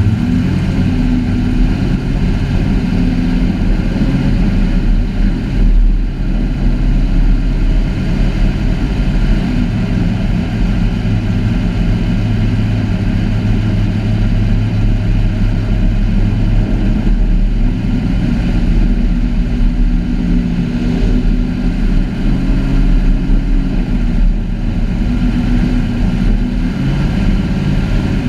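Heavy truck engine running loud and steady at an even low pitch, with only small changes in engine speed.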